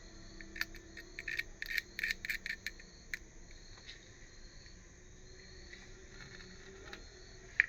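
A quick run of sharp clicks and taps for about three seconds, over faint steady insect chirping like crickets.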